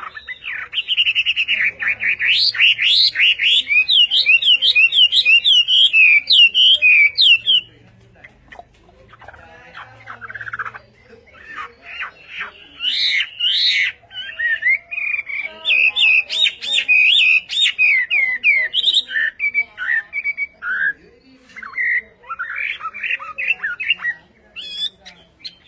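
A songbird singing loud, fast runs of varied whistled notes that swoop up and down. It sings in two long bouts with a few seconds' pause near the middle.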